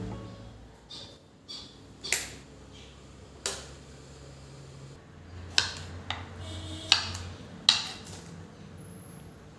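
A handful of sharp light knocks and clicks, spaced irregularly about a second apart, with a faint low hum underneath.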